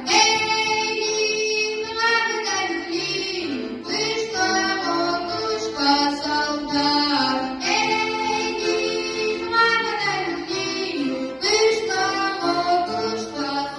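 A child singing a Russian folk song in long held phrases over instrumental accompaniment.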